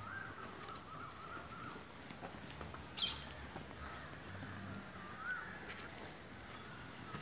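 Birds calling outdoors, crow-like, with wavering calls near the start and again about five seconds in, and one short, sharp call about three seconds in.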